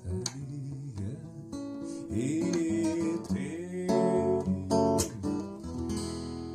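Acoustic guitar playing an instrumental passage with some sliding notes. Near the end a chord is left ringing and slowly fades.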